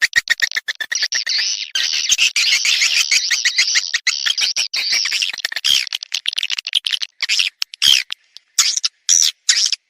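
Recorded swiftlet calls of the kind used to lure swiftlets: rapid high twittering chirps that run together into a dense chatter about two to five seconds in, then break up into separate chirps.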